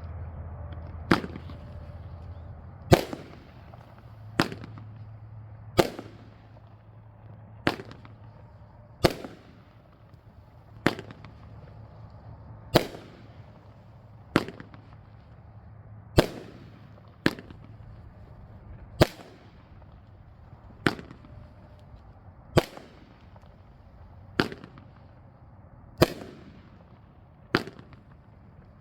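A 12-shot, 500-gram consumer firework cake (Elite Fireworks Droid Fighter) firing its shots one after another: sharp bangs about every second and a half to two seconds.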